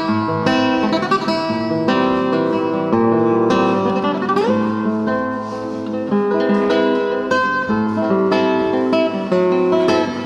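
Solo acoustic guitar playing a melodic piece in single plucked notes and chords, with a rising slide along a string about four and a half seconds in.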